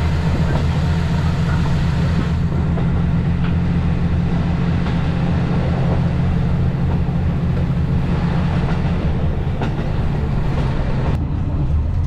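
Train running at speed: a steady low drone with rail noise over it and a few faint clicks.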